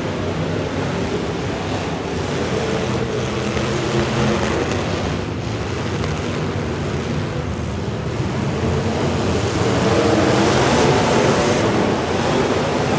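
Demolition derby car engines running and revving together in a steady, dense wash of noise, a little louder about ten seconds in.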